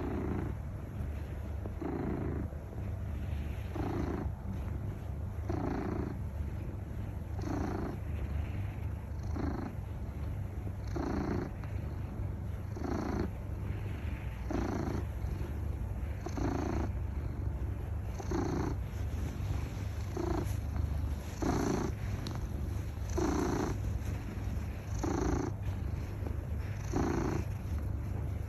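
Domestic cat purring close up: a continuous low rumble that swells with each breath, about once every two seconds.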